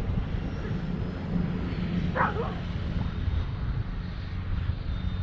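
Gusty wind buffeting the microphone, with the faint high whine of a Durafly Tundra RC plane's electric motor slowly shifting in pitch. A dog barks once about two seconds in.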